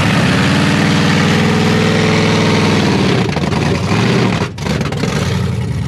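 Truck engine revving hard, its pitch climbing over the first couple of seconds and holding high, then cutting out briefly about four and a half seconds in before it picks up again.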